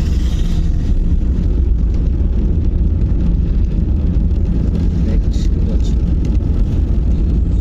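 Steady low rumble of a manual car's engine and road noise, heard from inside the cabin while the car drives along.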